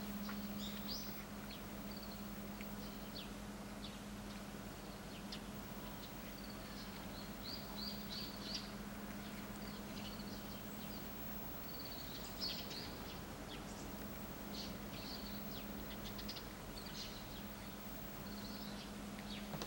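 Small birds chirping over and over in short high calls, over a steady low hum.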